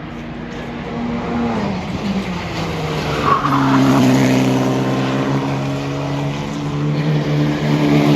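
Formula racing car engine on track, its pitch falling as the car slows, then holding a louder steady note, with a brief tyre squeal about three seconds in.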